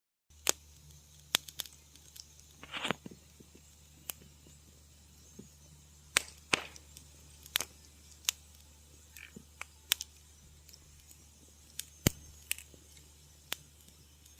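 Wood fire crackling in a fireplace: irregular sharp pops and snaps over a soft steady hiss and a low hum, with a short crunchy run of crackles about three seconds in.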